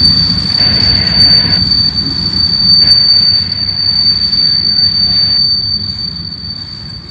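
Freight train rolling by, a loud low rumble that fades away over the last couple of seconds, with a steady high-pitched squeal over it.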